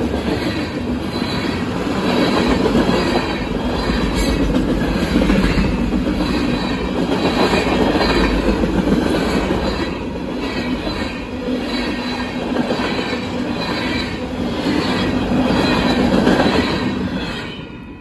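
Freight train cars, tank cars and then refrigerated boxcars, rolling past at speed, their wheels clacking in a steady rhythm. The sound falls away sharply near the end as the last car goes by.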